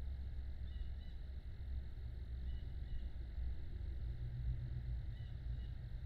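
Steady low outdoor rumble with faint, short, high bird chirps coming in pairs three times: about a second in, around the middle, and near the end.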